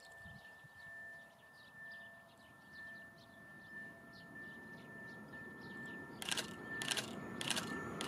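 Faint birdsong chirps over a steady high tone; near the end a train's rumble grows as it approaches, with sharp regular clacks a little under twice a second.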